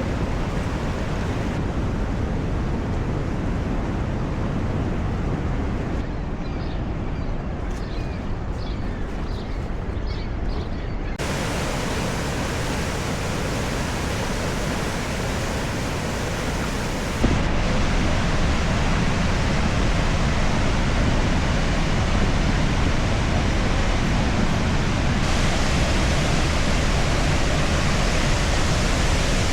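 Steady rushing noise of Niagara Falls' falling water, heard across several spliced clips that change level abruptly, the loudest from about 17 seconds in; faint high chirps sound briefly in the quieter middle stretch.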